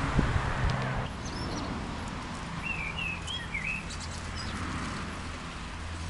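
A songbird chirping, a quick run of short chirps in the middle, over a low steady rumble of wind and movement noise.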